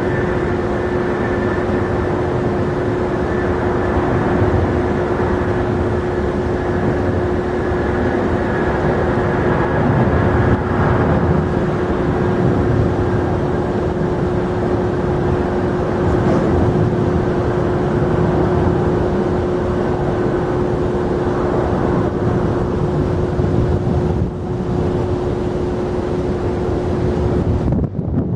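Jet airliner engines running, a steady roar with a steady whine over it.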